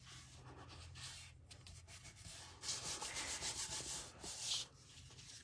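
Paper rubbing and sliding on a work surface in a run of scratchy strokes, louder from about two and a half seconds in until near the end.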